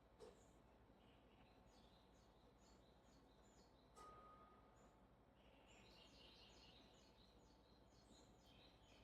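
Near silence: faint background noise with distant birds chirping, and a soft tap just after the start and again about four seconds in.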